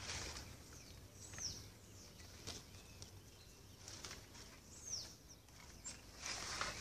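A bird repeating a short high call that falls in pitch, twice, about three and a half seconds apart, over a faint steady hiss. There are a few brief bursts of noise, one at the start and a longer one near the end.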